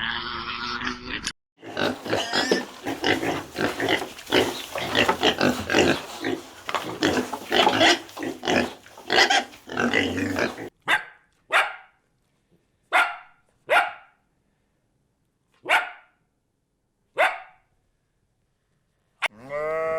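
Animal calls: a long run of rapid, dense, noisy grunting, then five or six short separate calls spaced a second or two apart.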